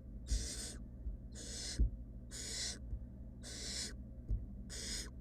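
Barn owl nestlings giving their rasping, hissing begging 'snore' calls, about one a second, each about half a second long. There are two soft low thumps among them.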